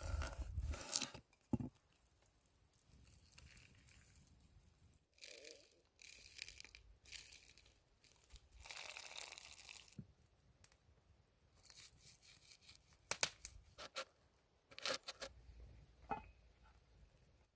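Steak-preparation handling sounds: a string of short, irregular tearing and rustling noises, with a few sharp clicks and knocks about two-thirds of the way through.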